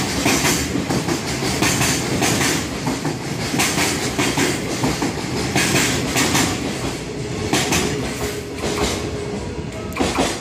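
Freight train wagons rolling past, their wheels clacking over rail joints in a steady rhythm of paired clicks about once a second over a continuous rumble.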